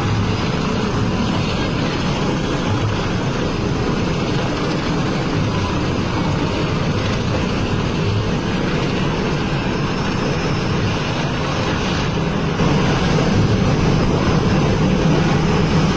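Helicopter flying overhead: steady rotor and engine noise that jumps suddenly louder near the end.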